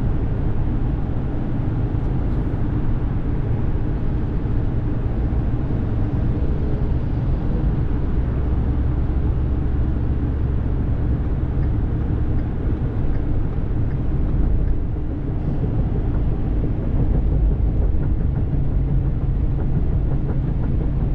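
Pickup truck pulling a trailer loaded with steel grating: a steady low engine and road rumble.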